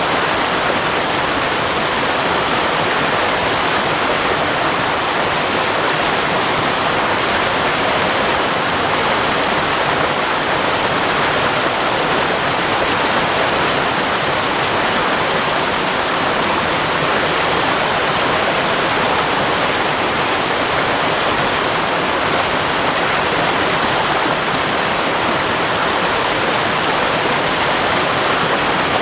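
Waterfall pouring: the steady rushing of falling water, loud and unchanging.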